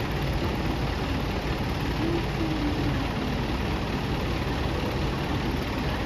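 City bus engine running steadily at idle, a low, even rumble.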